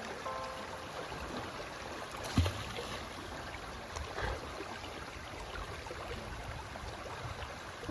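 Steady rushing noise of flowing or splashing water, with one sharp knock about two and a half seconds in.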